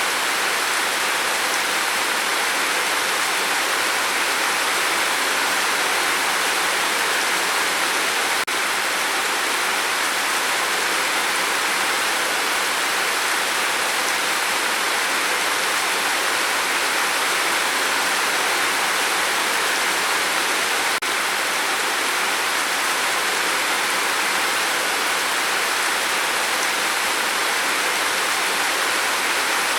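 Steady rain falling, an even hiss with no distinct drops and no change in strength. Two faint ticks break it, about a third and two thirds of the way through.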